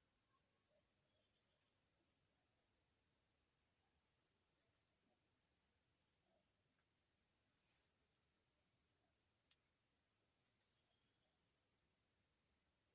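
Steady high-pitched chorus of insects chirring.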